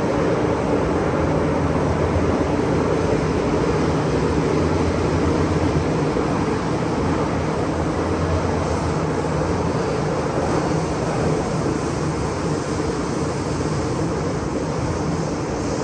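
MTR M-Train electric multiple unit running at speed, heard from inside the car: a steady rumble of wheels on the rails under a low hum from the traction equipment.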